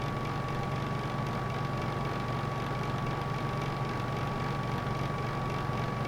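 Electric heater running steadily: an even hum and rush with a thin, constant tone above it.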